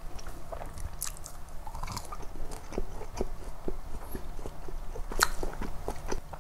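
Close-miked chewing of a crispy McDonald's chicken nugget: an irregular run of short crunches and mouth clicks, with one sharper, louder crunch about five seconds in.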